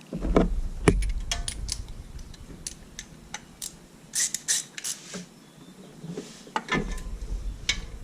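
Irregular metallic clicks and clinks of hand tools being handled, with low rumbling bumps in the first second or so and again near the end.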